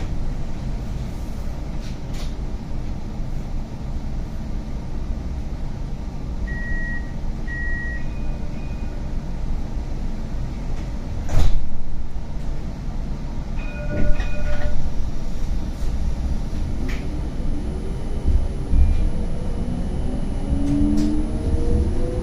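Inside a CAF Urbos 100 tram: a steady low rumble, two short high beeps about seven seconds in, and a loud knock about halfway through. Near the end the electric traction motors' whine rises in pitch as the tram accelerates.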